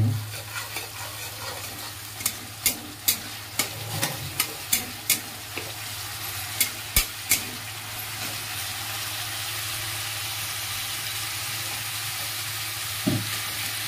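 Onion and garlic paste sizzling in hot oil in a metal kadhai while a metal spatula stirs it. Sharp taps and scrapes of the spatula on the pan come through the first half, then a steady sizzle.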